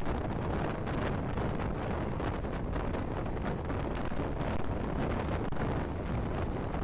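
Wind blowing hard across the microphone over the running noise of a moving train, taken from a camera held out of the carriage.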